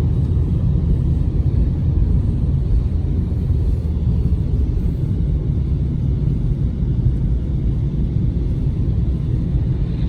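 Steady low road rumble inside a moving car's cabin: engine and tyre noise while driving.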